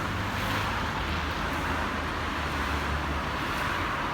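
Steady road noise of a moving car, a low engine rumble under an even hiss of tyres and air.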